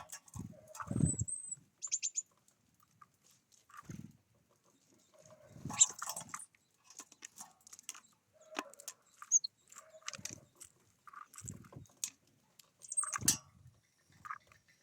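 Small birds giving short, high chirps at irregular intervals, mixed with soft low thumps and rustles.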